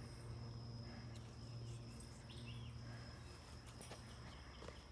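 Faint woodland ambience: a steady high insect trill, with a short bird call about two seconds in.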